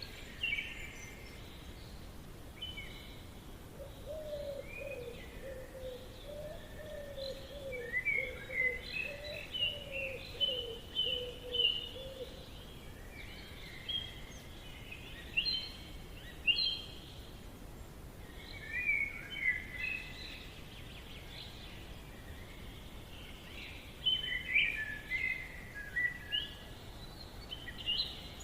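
Forest ambience: several birds chirping and trilling in short, scattered phrases, with a lower, wavering call running for several seconds from about four seconds in, over a faint steady background hiss.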